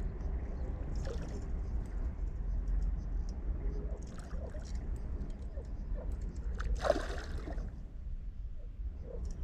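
Water sloshing and gurgling with scattered small clicks, over a steady low rumble, and a louder noise about seven seconds in.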